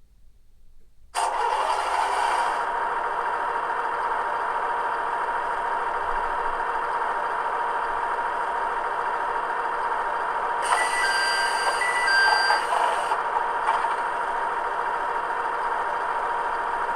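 DCC sound decoder in an HO-scale Kiha 110 diesel railcar model playing its diesel engine running sound through the model's small speaker, switching on suddenly about a second in and then steady with a constant whine. About ten seconds in, a short series of electronic beeps at a few pitches sounds over it for about two seconds.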